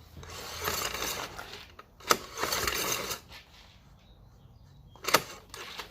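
Recoil pull-starter of a Yamaha Moto-4 ATV pulled twice, the rope rushing out of the rebuilt reel with the compression release held, and sharp clicks from the mechanism around two and five seconds in; the engine does not fire.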